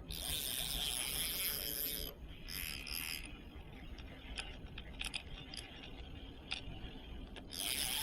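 Fishing reel drag giving line in rasping buzzes of about two seconds each, at the start, about two and a half seconds in and near the end, with single sharp clicks between: a big fish pulling against the set drag.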